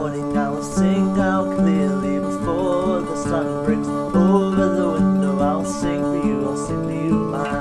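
Acoustic guitar strummed steadily, the instrumental introduction to a folk-style song.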